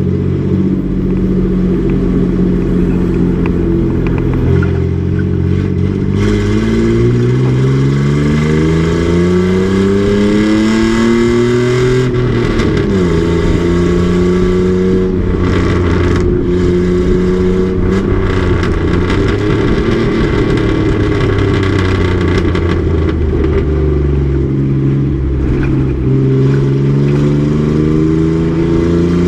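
Race truck's engine under load, its pitch climbing for several seconds and then dropping sharply at an upshift about twelve seconds in. It holds a fairly steady note for a while and climbs again near the end.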